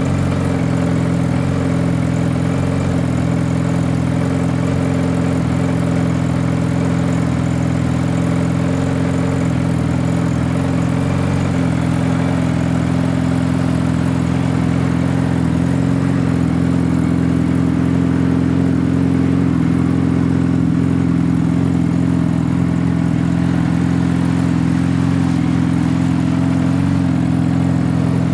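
2013 Suzuki Hayabusa inline-four engine idling steadily through a full Brocks Hindle 4-into-1-into-2 aftermarket exhaust, with no revs.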